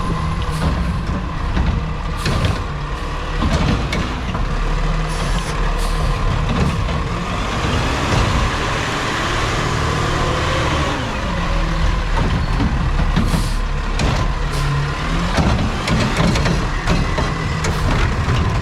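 Peterbilt 520 garbage truck with a Heil Curotto-Can body working, its diesel engine running with a rise and fall in pitch about halfway through, with scattered knocks and clanks.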